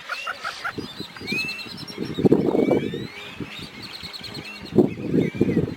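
Flock of cattle egrets calling: loud, rough, low croaking in bursts about two seconds in and again near the end, over many high chirps and whistles.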